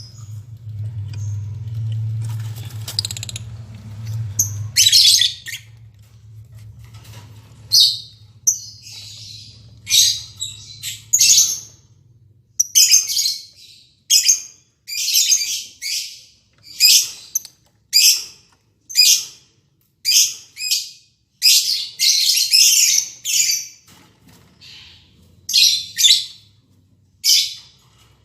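Lovebirds giving short, harsh, high-pitched calls over and over, about one a second, starting about five seconds in. A low hum fades out over the first dozen seconds.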